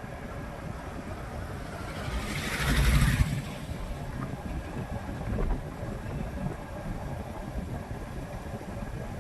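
Street traffic and engine rumble heard while riding a bike through city streets. About two seconds in a louder rushing swell builds, then cuts off after about a second, as from a vehicle passing close by.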